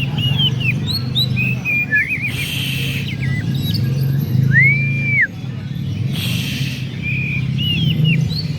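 Many caged songbirds chirping, trilling and whistling at once, with one long arched whistle about halfway through. Two short hissing bursts come about two and a half and six seconds in, over a steady low hum.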